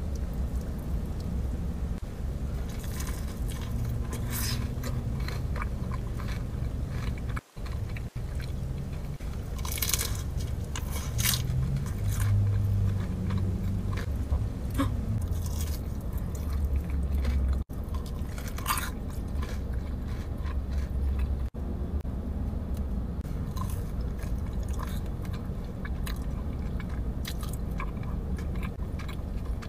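Close-up biting and chewing of crispy fried chicken fingers, with sharp crunches at each bite and wet chewing in between, over a low steady hum.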